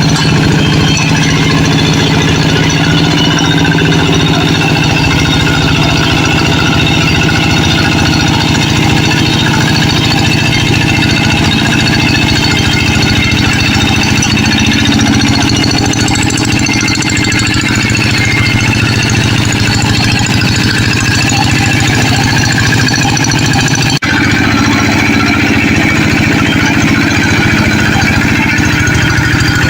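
Tractor engine running steadily and loudly with an even, knocking beat.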